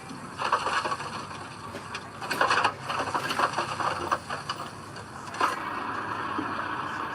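Heavy earthmoving machinery at work: irregular clanks and scrapes, then a steady running noise from about five and a half seconds in.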